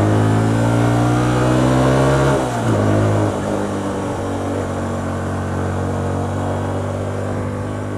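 Hyosung GT125R's 125 cc V-twin engine pulling up through the revs for about two seconds, then the revs drop sharply and it runs on steadily at lower revs, a little quieter.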